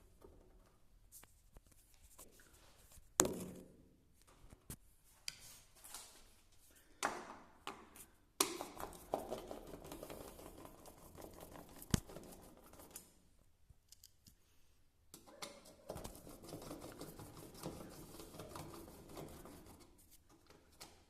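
Handling noise from repair work: scattered sharp clicks and knocks of parts and tools being picked up and set down, with stretches of scraping and rustling in between.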